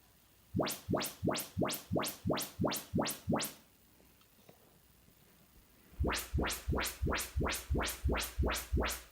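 Yamaha RX-V677 receiver's YPAO auto-calibration test signal playing through the speakers: quick rising sweep tones, about two and a half a second, in two runs of about eight with a pause between. The second run has much more deep bass.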